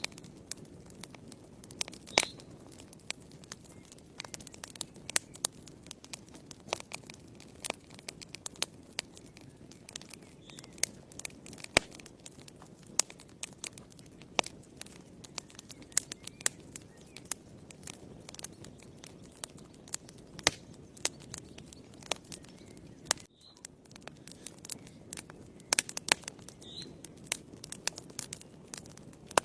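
Wood fire burning in a fireplace: irregular sharp crackles and pops over a low, steady rush of flame. The sound drops out briefly about 23 seconds in.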